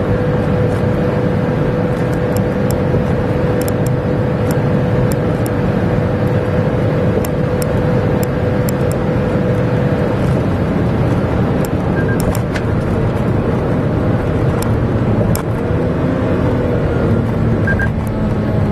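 Toyota Raize / Daihatsu Rocky turbocharged engine running steadily, with a steady whine that stops about ten seconds in.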